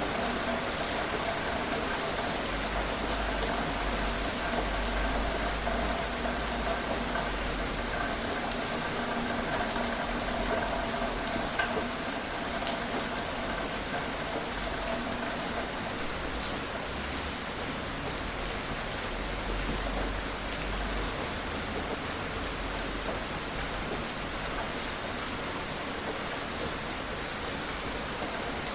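Steady gentle rain falling on surfaces: a continuous even hiss with scattered individual drops ticking.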